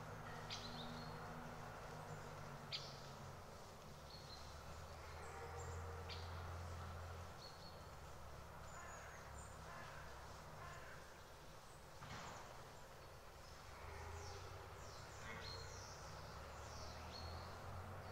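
Small birds giving short, high chirps scattered throughout, over a faint steady low rumble of outdoor background noise.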